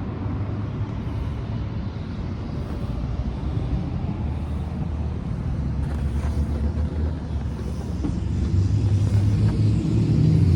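Road traffic from a busy road: a steady low rumble of passing vehicles, with a vehicle's engine growing louder near the end as it comes closer.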